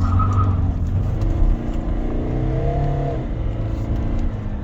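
Kia Carnival turbo-diesel engine pulling under acceleration on the road. Its pitch climbs, drops about three seconds in, then holds steady. It is running with the faulty intake pipe replaced and sounds "much better".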